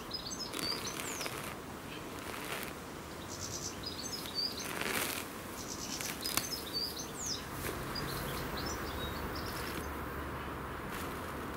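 Small birds chirping in short bursts of high calls, with quick falling whistles among them, and a few brief rustles in between.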